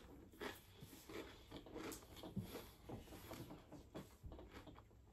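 Quiet, irregular crackles and clicks of someone chewing crunchy chicharrones.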